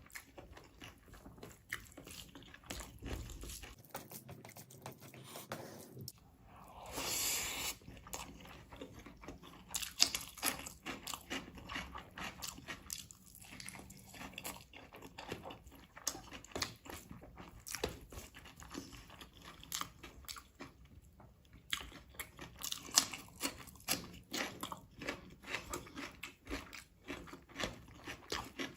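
Close-up eating sounds: chewing, crunching and mouth clicks from a meal of rice with chicken leg curry and egg curry, going on in quick irregular bites. A longer rushing noise stands out about seven seconds in.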